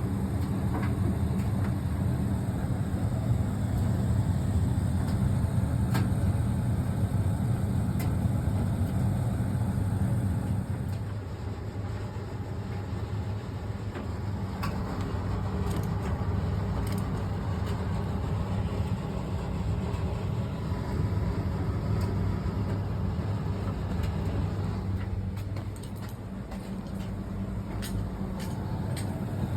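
Fisher & Paykel ED56NZ clothes dryer running: a steady low hum of the motor and tumbling drum. It dips quieter about eleven seconds in and again near the end, with occasional light clicks.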